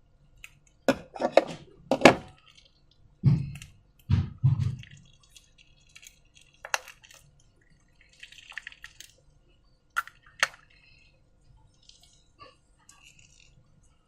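Wet slime squelching and plopping, with a few low soft plops and sharp clicks and taps at irregular moments.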